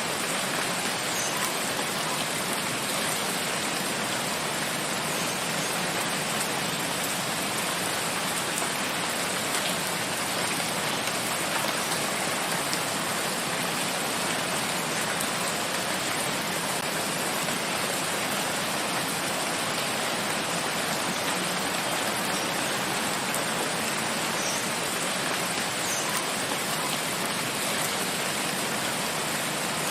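Steady rain falling in a forest, an even hiss of drops with a few faint individual drips now and then.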